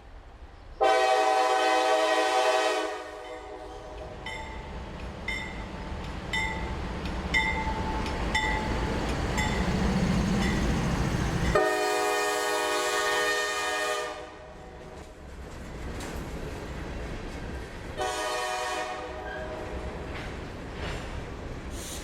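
CSX diesel locomotive air horn sounding three blasts, the first two long and the third shorter, with another starting at the very end. Between the first two blasts a bell dings at an even beat, under a low rumble of the passing locomotives that builds to its loudest just before the second blast.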